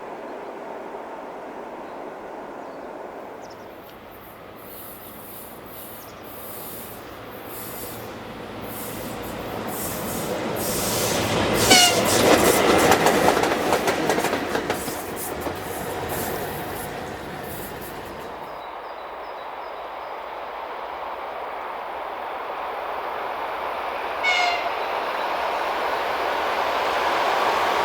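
A train passing on an electrified main line: the rumble and rail noise build to a peak about halfway through and then fade. There is a short horn toot as it passes and another brief toot later, while a second train's noise rises near the end.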